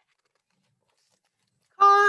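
Near silence, then a woman's reading voice begins near the end with a drawn-out, sing-song first word.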